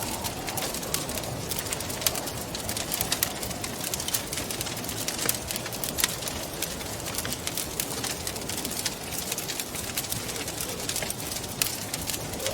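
Wood fire crackling with frequent sharp pops, over a steady rushing wind with a soft wavering moan underneath.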